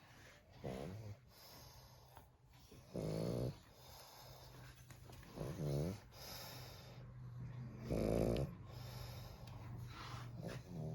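A pug snoring in its sleep: five pitched snores, one about every two and a half seconds.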